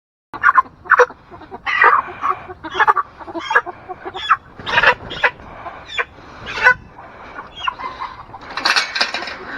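Meat chickens squawking and clucking in short, sharp calls, about one or two a second, with a longer, louder squawk near the end: the alarm calls of birds being handled for slaughter.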